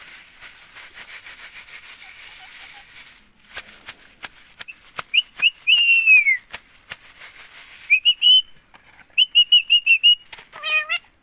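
Indian ringneck parakeet whistling: a few short high whistles and one falling whistle, then a rising whistle and a quick run of about six short whistled notes, with a short chirpy call near the end. Faint hiss and scattered clicks in between.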